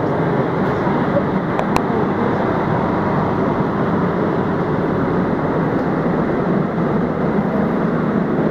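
Steady drone and low hum of a diesel-hauled passenger train standing at the platform, its engine and on-board machinery running, with one faint click about two seconds in.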